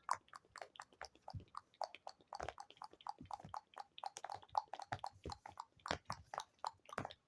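Close-up ASMR mouth sounds and tapping: a rapid, irregular run of small wet clicks and pops, several a second.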